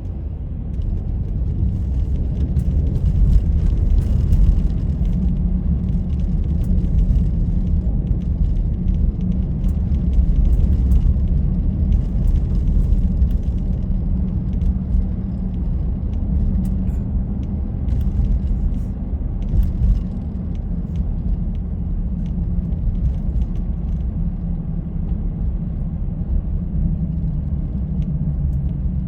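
Steady low rumble of a car driving, building over the first couple of seconds, with faint scattered ticks above it.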